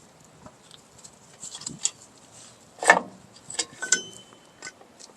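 Metal tool and brake return spring clicking and scraping against drum brake shoes and hardware as the spring is forced into place, with one louder clank about three seconds in and a short metallic ring just before four seconds.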